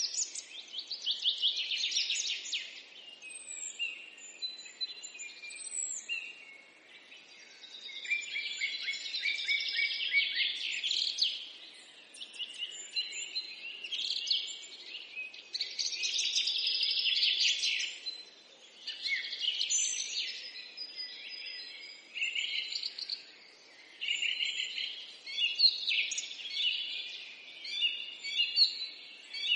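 Small birds chirping and singing together, a busy chorus of high twittering calls and trills that swells and fades in bouts every few seconds.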